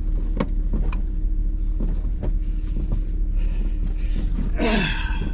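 Hummer H2's engine running at low trail speed, a steady low drone, with scattered sharp clicks and knocks. Near the end comes a louder, brief sound that falls in pitch.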